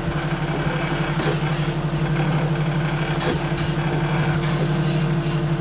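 Jeep Cherokee (XJ) engine running steadily at low revs, near idle, while the 4x4 crawls slowly down a steep rock ledge. There are a few faint ticks over the steady hum.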